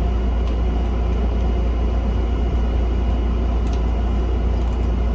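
Steady low background hum and rumble with a few faint clicks.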